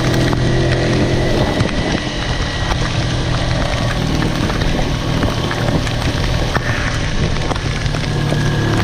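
Kawasaki Versys-X parallel-twin motorcycle engine running steadily under way, its low hum half buried in wind buffeting the microphone and the hiss of rain. The engine tone is strongest in the first two seconds, fades a little through the middle and comes back up near the end.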